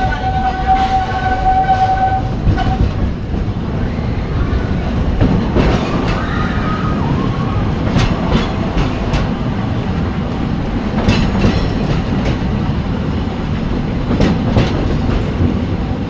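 Walt Disney World Railroad steam train running along the track: a steady low rumble with clicks from the wheels and rail joints about 8, 11 and 14 seconds in. A high steady tone sounds at the start and stops about two and a half seconds in.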